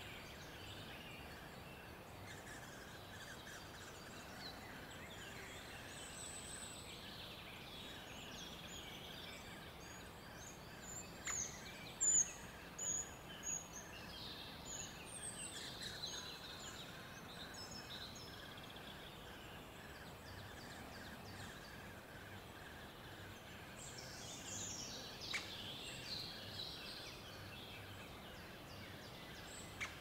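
Steady faint background hiss with scattered short, high-pitched bird chirps, in a busy cluster about a third of the way in and another near the end, with two sharp single ticks.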